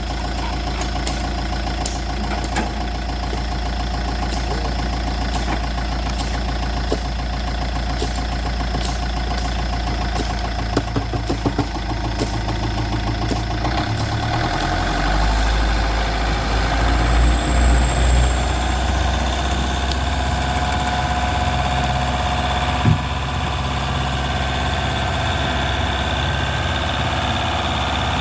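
Small engine of a miniature construction machine running steadily. About halfway through its note drops and it works harder for a few seconds, with a few light clicks over it.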